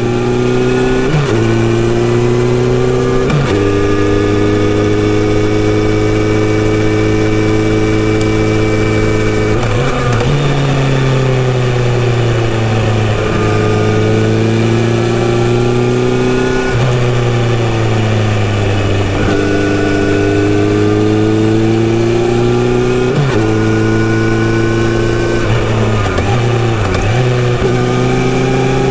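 Kawasaki Z900RS inline-four engine with a full-system exhaust pulling through the gears on the road: its pitch rises with brief dips at each shift early on. About ten seconds in the pitch falls for several seconds as the bike slows, then it climbs again through more upshifts.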